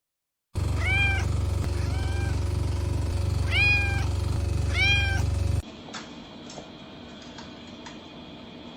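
A cat meows four times, each call rising and falling, the second fainter, over a loud steady low hum. After an abrupt cut the sound drops to a faint background with a few soft clicks.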